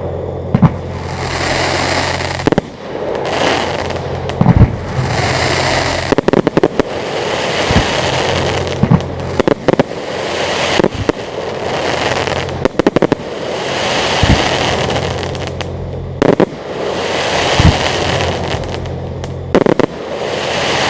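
Aerial fireworks display: sharp shell-burst bangs every second or two, with swelling waves of crackling between them.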